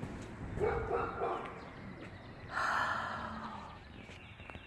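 A dog barking a few times, with a louder bark about halfway through and faint bird chirps near the end.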